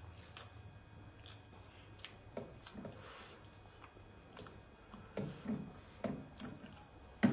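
Close-up mouth sounds of chewing momo dumplings, with a metal fork clicking and scraping against a glass bowl of soupy dipping sauce. Short irregular clicks throughout, a run of wetter mouth sounds in the second half, and one sharp clink near the end.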